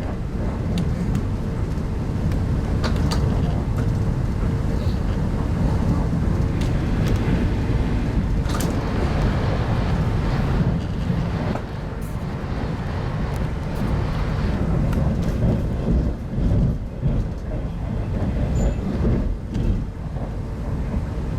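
Inside an RZ25T passenger coach running on the line: a steady low rumble of the wheels on the track, with a faint steady hum and a few sharp clicks scattered through it.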